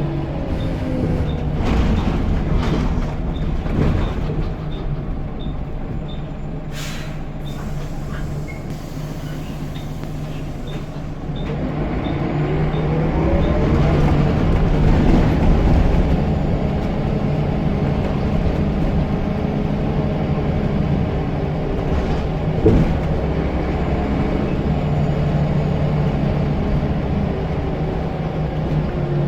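Scania L94UB bus diesel engine running, then pulling away about eleven seconds in, its pitch and the turbo whistle rising together as it gets louder. A faint regular ticking sounds through the first ten seconds, and a single sharp knock comes about 23 seconds in.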